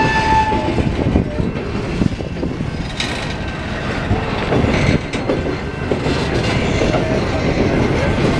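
Freight train of covered steel coil cars rolling past at close range: a steady rumble and clatter of steel wheels over the rails, with a brief high squeal from the wheels at the start.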